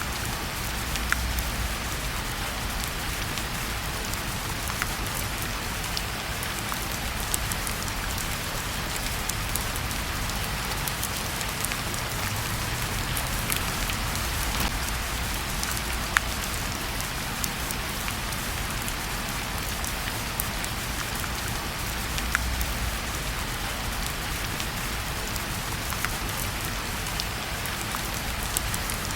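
Steady rain falling together with a fireplace fire: an even hiss of rain with scattered sharp crackles standing out over it.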